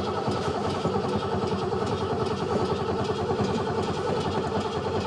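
Ford F-150's starter cranking the engine steadily in a cold no-start: the fuel-injected engine turns over but does not catch, with no ether used.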